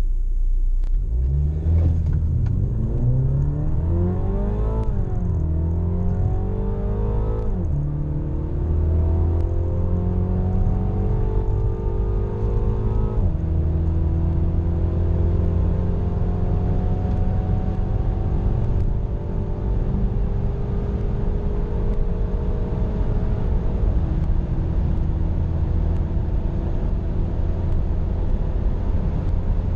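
A Mini John Cooper Works Convertible's turbocharged four-cylinder engine accelerating hard through the gears. Its pitch climbs and drops sharply at upshifts about 5, 7.5, 13 and 24 seconds in, and each gear's climb is longer than the last.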